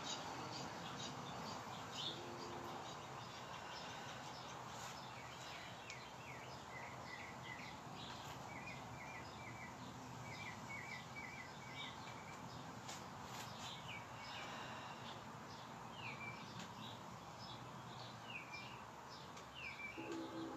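Birds chirping outside over a steady background hiss: runs of quick repeated notes, then several short down-sweeping calls.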